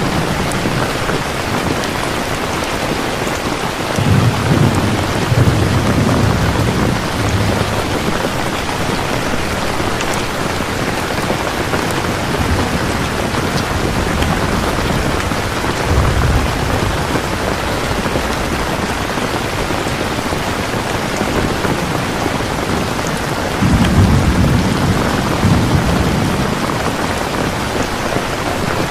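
Steady rain falling in a continuous hiss. Low rumbles, likely distant thunder, swell up about four seconds in, again about halfway through, and once more near the end.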